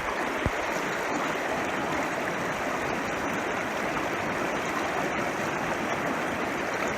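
Mountain trout creek rushing steadily over rocks, with one brief knock about half a second in.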